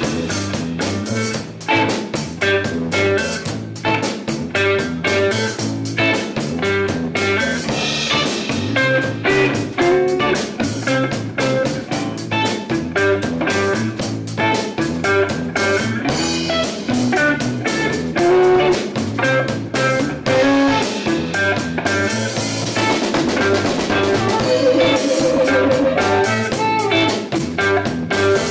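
Instrumental electric blues played live by a band: guitar lines over a steady drum-kit beat.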